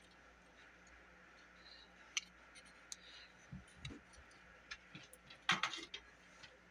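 Scattered light clicks and taps of the plastic and metal parts of a car cassette deck being handled during disassembly, with a short cluster of louder clicks about five and a half seconds in.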